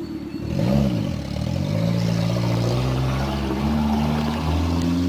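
Truck engine revving up and back down once about half a second in, then running under load with its pitch climbing slowly as it accelerates.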